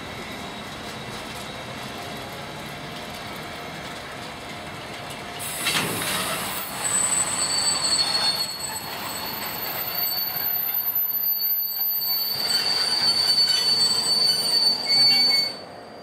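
Loaded container wagons of a freight train rolling past. About a third of the way in, the wheels start squealing in several high, steady tones over louder rolling noise. The squeal and rolling noise drop off suddenly near the end.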